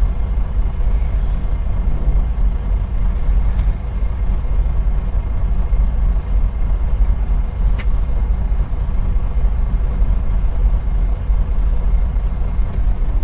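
Semi truck's diesel engine idling while stopped in traffic: a steady low rumble, heard from inside the cab.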